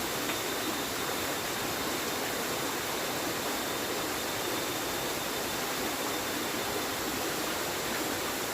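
Steady rushing noise of water, even and unbroken, with a faint high steady tone above it.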